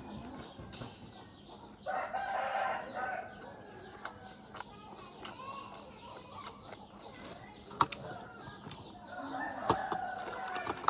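A rooster crowing twice, one crow about two seconds in and another near the end, each lasting just over a second. A few sharp clicks come in between.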